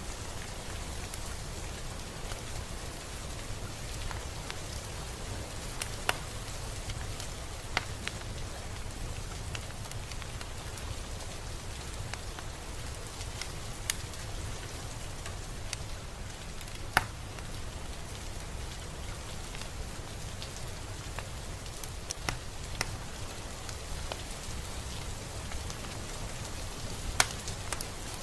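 Steady rain falling on a surface, a continuous hiss over a low rumble, with scattered louder individual drops ticking sharply now and then.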